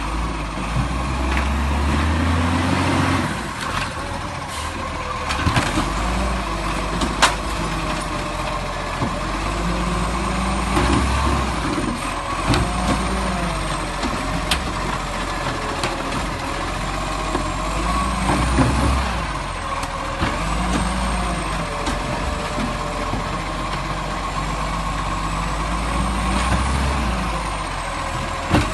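Garbage truck running, its engine note rising and falling, with a few sharp knocks.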